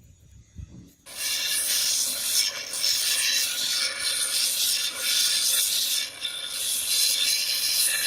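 Sanding of a steel sword blade: a harsh, continuous abrasive rubbing that starts suddenly about a second in and swells and dips roughly once a second.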